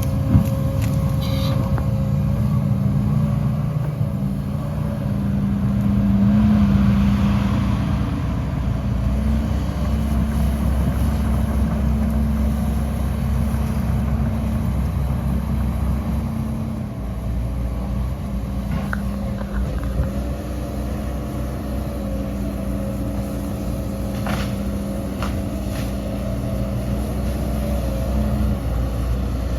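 Heavy diesel engines of earthmoving machinery running steadily, swelling louder about six seconds in, with a few faint knocks near the end.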